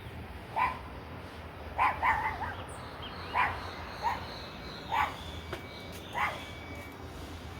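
A dog barking at the people below, about seven short single barks at irregular spacing, two of them close together about two seconds in.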